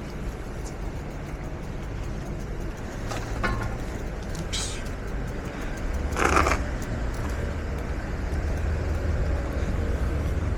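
Outdoor road noise: a steady low rumble with a few brief hissing swooshes, the loudest about six seconds in.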